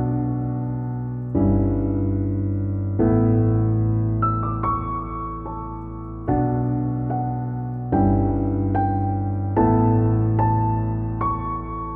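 Slow, gentle piano background music: sustained chords struck about every second and a half, each left to ring and fade, with a few higher notes over them.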